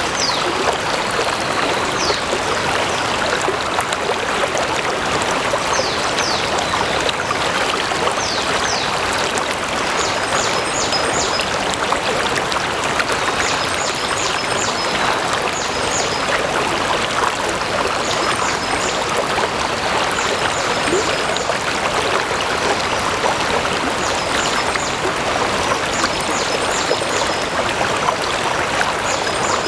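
Stream water flowing and splashing in a steady, unbroken rush. High chirps come and go above it: a few short falling chirps in the first nine seconds, then clusters of brief high notes every couple of seconds.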